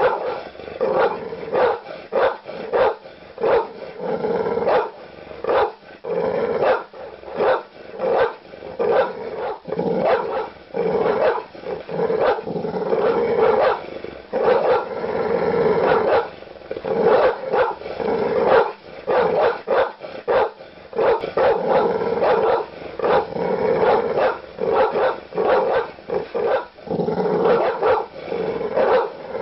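Large dog barking aggressively: deep barks in quick runs of about one to two a second, without let-up, broken by a few longer, drawn-out stretches.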